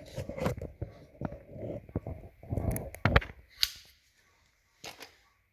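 Handling noise from a phone being picked up and repositioned by hand: irregular knocks, clicks and rubbing that stop about four seconds in, then two soft taps near the end.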